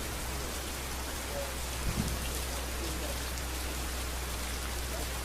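Steady rain falling on a street: an even hiss of drops over a steady low rumble, with a single dull low thump about two seconds in.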